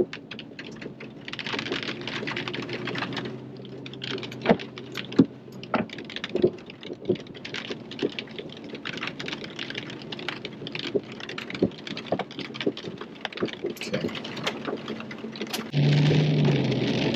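Rain and drips tapping on a vehicle's roof and windshield in irregular ticks, a few of them much louder. A low engine hum runs under them and grows louder near the end.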